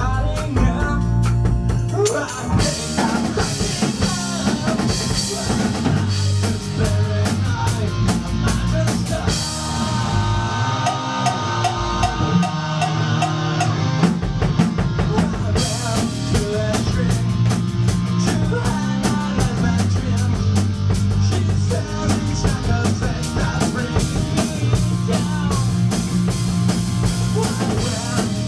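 Rock band playing live with drum kit, electric guitar and bass: a steady driving beat with cymbals, a brief break in the cymbals about ten seconds in, then the full band again.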